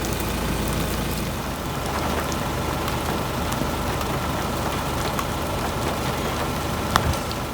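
Steady rain, heard from a car, over the low, constant hum of the car's engine running. A single sharp click about seven seconds in.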